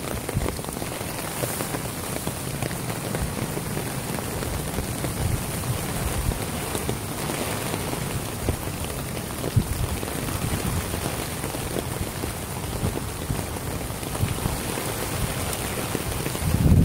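Rain falling steadily on a tarp overhead, a dense patter of drops on the stretched fabric.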